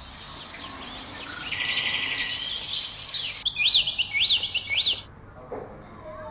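Birds chirping and calling, several different calls with a quick trill, then four repeated rising-and-falling whistled notes. The birdsong stops about five seconds in.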